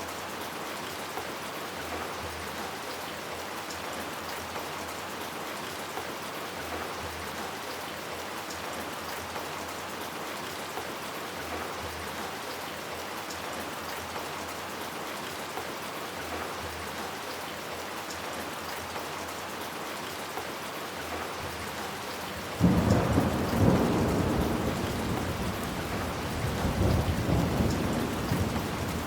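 Steady rain falling, then about three quarters of the way through a sudden loud clap of thunder that rumbles on, swelling again near the end.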